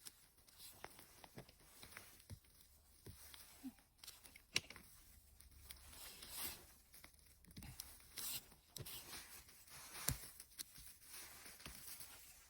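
Faint rustling and crackling with scattered sharp snaps, from dry mushrooms and forest litter being handled and picked.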